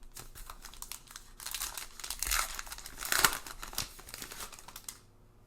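A wrapper on a pack of baseball cards crinkling and tearing as it is opened by hand, loudest about two to three seconds in, then settling down near the end.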